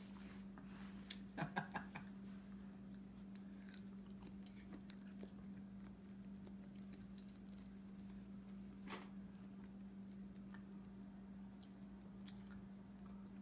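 Quiet eating sounds: soft chewing and the fingers peeling the shell off a boiled shrimp, with a quick run of sharp clicks about a second and a half in, over a steady low hum.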